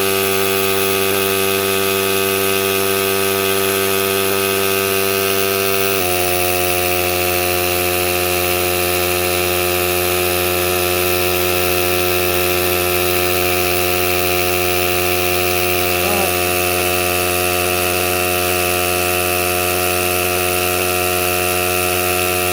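Small piston air compressor, salvaged from a jump starter and driven by an RC truck's Velineon brushless motor, running flat out with a steady, high machine tone as it builds pressure toward 40 PSI. The tone shifts slightly about six seconds in. It is running far faster than it was built for and getting extremely hot.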